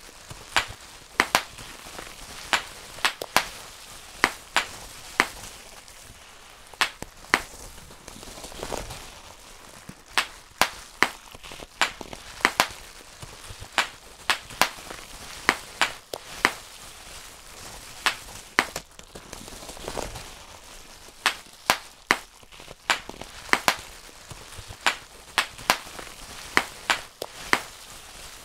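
Bubble wrap being popped by hand, one bubble at a time: sharp, irregular pops, about one or two a second, with a couple of short pauses.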